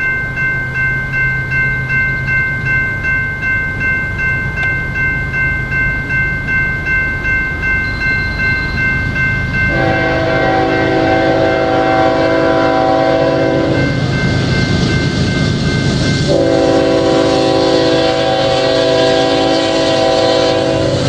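Railroad crossing signal bell ringing in a steady pulse, about twice a second, over the rumble of an approaching diesel freight train. The lead locomotive's multi-chime air horn then sounds two long blasts, one about ten seconds in and one about sixteen seconds in, each lasting about four seconds.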